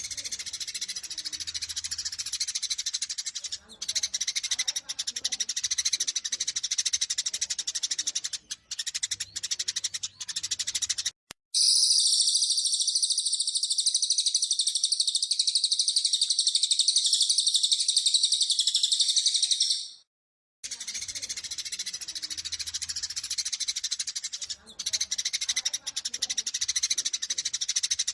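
Eurasian tree sparrows chattering in dense, rapid fighting chirps. About eleven seconds in, the recording cuts to a louder, unbroken high twittering for about eight seconds, then cuts back to the sparrow chatter.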